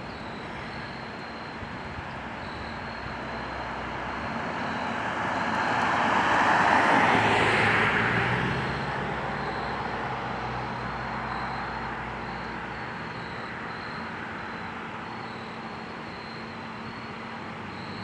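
A truck passing by on the highway: engine and tyre noise building to a peak about seven seconds in, then fading away.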